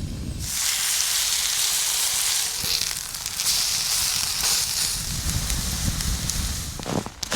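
Food sizzling in hot fat in a pan over a campfire, with scattered crackles. The sizzle starts suddenly about half a second in, as food hits the hot pan, and a few knocks come near the end.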